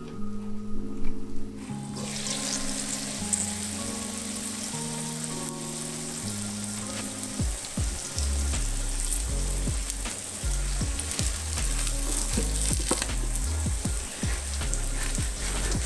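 An egg and broccoli omelette sizzling in a frying pan. The sizzle comes up about two seconds in, once the glass lid is lifted off with a couple of knocks, and in the second half a spatula scrapes around the pan's edge. Background music with slow, held notes plays underneath.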